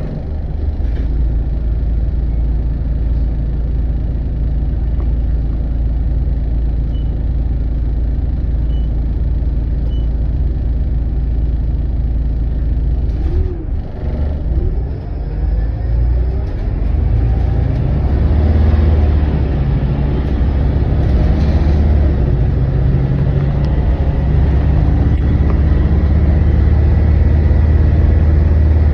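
Volvo B8RLE bus's diesel engine running under way, a steady low rumble that grows louder and stronger a little over halfway through as the bus pulls harder.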